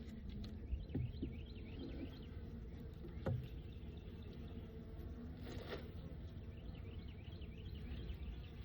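Faint hum of honeybees around an open hive, with a couple of light knocks from a wooden hive frame being handled, about one and three seconds in. Birds chirp in the background.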